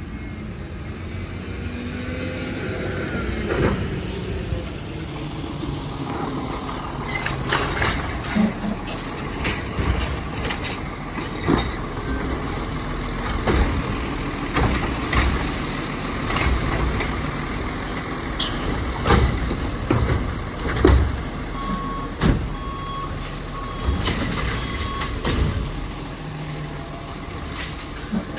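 Autocar Expeditor garbage truck with a Bridgeport Ranger automated side-loader body at work: the diesel engine runs and revs while repeated bangs and clanks come from the arm and the dumping cans. Short beeps sound about two-thirds of the way in.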